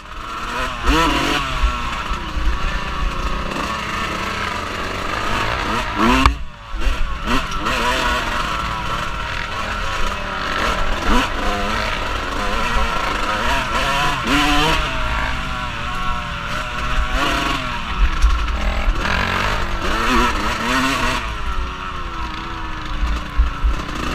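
Off-road vehicle engine revving up and down over and over while riding, with a heavy low rumble underneath and a brief drop just after six seconds in.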